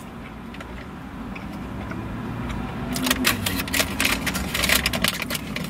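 Chewing a toasted hash brown, with sharp crunching and paper-bag crinkling starting about three seconds in, over a low steady hum.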